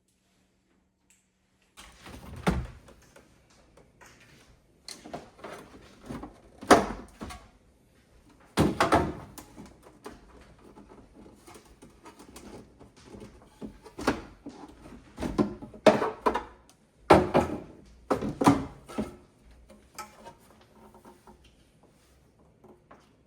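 Irregular knocks, clunks and clatter of refrigerator shelves, drawers and containers being handled and moved about, with the occasional bump of a door or drawer.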